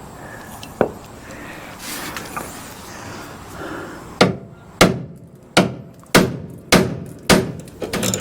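Hammer blows on a bent car frame: a single blow about a second in, then a run of six blows a little over half a second apart in the second half.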